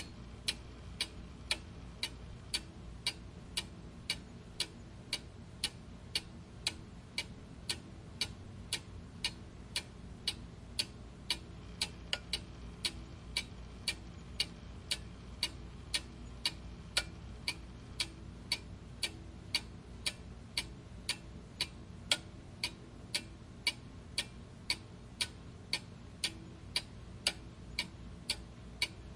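A clock ticking steadily, with sharp, evenly spaced ticks over a faint low background noise.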